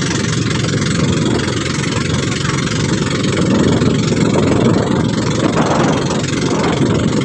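Motorboat engine running steadily under way, with a loud, even rushing noise throughout.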